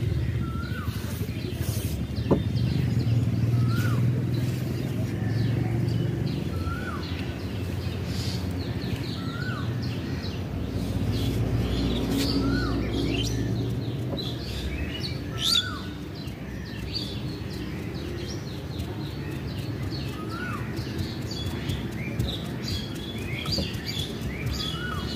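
Small birds chirping, one repeating a short rising-and-falling call about every second or two, with busier high chirps toward the end, over a low steady rumble that fades about halfway through.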